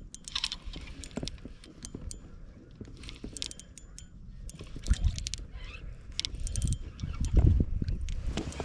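Clicks, rattles and knocks of fishing tackle and handling in a kayak while a hooked largemouth bass is fought and landed, with heavier thumps about five seconds in and again about seven and a half seconds in.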